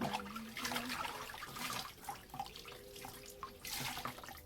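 Water running from a tap into a sink, with splashing.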